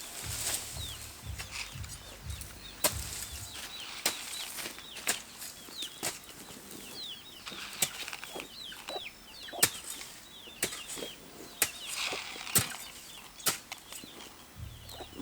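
Hoe striking the soil with sharp, irregular knocks about once a second while digging holes to plant corn. Small birds chirp in the background.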